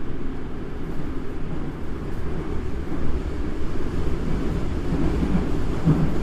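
Toei Asakusa Line 5300-series subway train running, heard from inside the car: a steady, deep rumble of wheels and running gear on the track.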